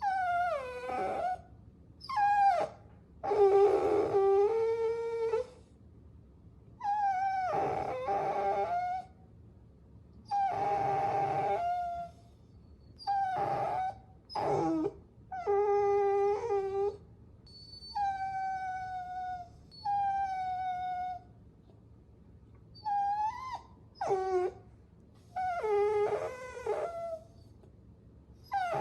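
Puppy whining: a string of high, pitched whines and whimpers, each half a second to two seconds long, several dropping in pitch at the end, repeating every second or two with short gaps between.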